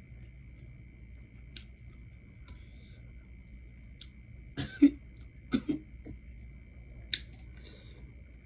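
A person eating pho close to the microphone: two short, loud mouth or throat sounds about halfway through, then a sharp click and a few small ticks, over a faint steady high tone.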